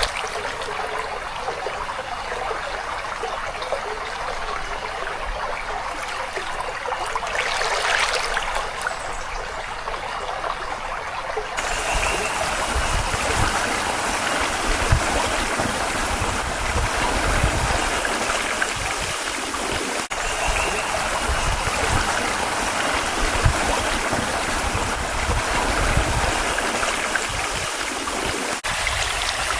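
Shallow creek trickling and babbling over stones, a steady rush of running water. About a third of the way in the sound changes suddenly to a brighter, fuller rush with some low rumbling.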